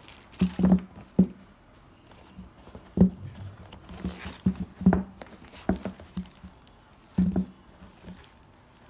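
Sneakers being handled: irregular knocks, taps and light rustles as the shoes are turned over and set down, with a sharper knock about three seconds in and another near five seconds.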